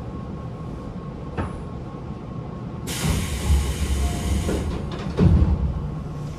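Running sound inside a Tobu 9050 series electric train car: a steady rumble of wheels on rail with the air conditioning running. About three seconds in a loud rushing hiss lasts over a second, and heavy clunks follow about five seconds in.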